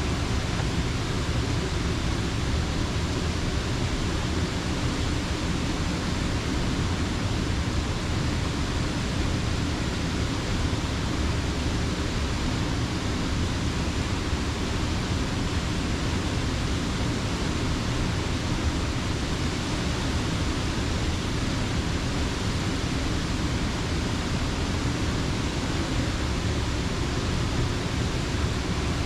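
Steady, unbroken rush of water pouring over a creek dam.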